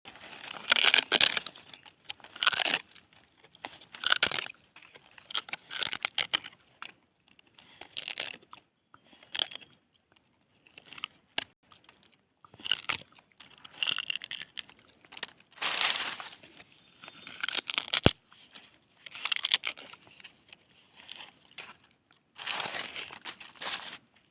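A dog chewing dried leaves: crisp crunching and crackling in irregular bursts every second or two, with short quiet pauses between bites.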